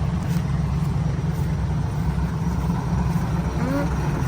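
Dump truck's Hino J07E turbo diesel engine running steadily at low revs with a deep, even rumble.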